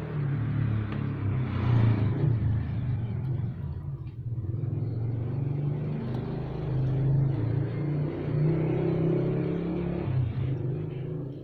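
Motor vehicle engines running with a low rumble, growing louder about two seconds in and again later, like traffic passing.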